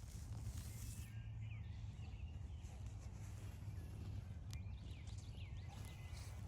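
Faint bird calls: a few short chirps that slide up and down in pitch, heard over a steady low rumble.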